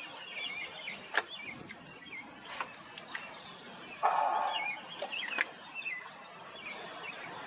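Several small birds chirping and calling over a steady outdoor hiss, with a few sharp clicks and a louder brief burst about four seconds in.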